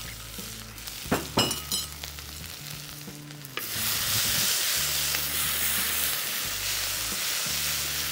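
Crushed ginger, green chilli and garlic frying in hot ghee in a steel kadai, stirred with a wooden spatula. A few knocks of the spatula come about a second in, then a loud steady sizzle starts suddenly about three and a half seconds in.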